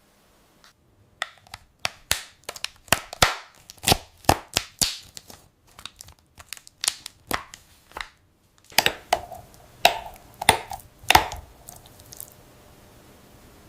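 An irregular run of sharp crunching and cracking sounds, pausing briefly about eight seconds in and stopping a little after twelve seconds.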